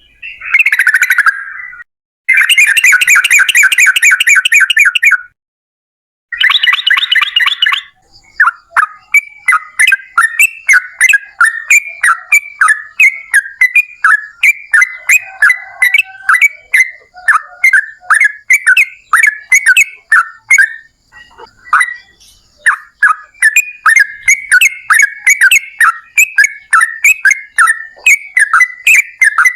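Yellow-vented bulbul (trucukan) singing loudly: a harsh call and two short buzzy rattling trills with brief pauses between, then a long run of quick bubbling chirped notes, several a second, with one short break near the end.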